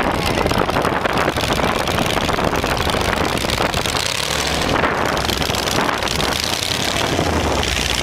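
Rat rod hearse engine running loud over a dense rushing noise, with a steadier low idle hum coming through near the end.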